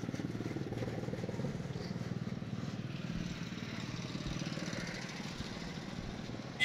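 Small motorcycle-type engines of passing street traffic running with a steady, fast pulse that eases off a little near the end.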